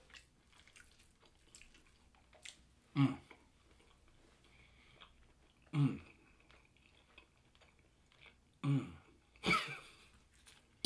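A man chewing a mouthful of food, with faint wet mouth clicks and fork taps, broken four times by short hums of enjoyment that fall in pitch; the last, near the end, comes with a short breathy laugh.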